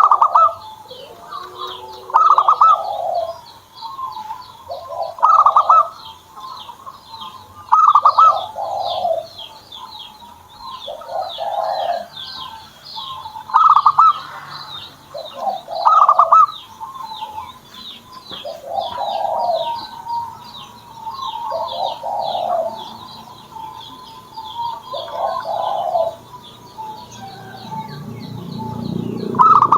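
Zebra dove (perkutut) singing its cooing song: a short phrase of coos repeated about every two and a half to three seconds. Small birds chirp steadily at a higher pitch underneath.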